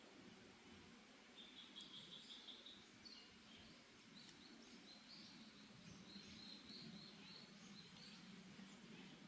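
Faint forest birdsong: a fast trill of high repeated notes about a second and a half in, then scattered chirps and another run of short high notes later on, over a steady soft background hiss.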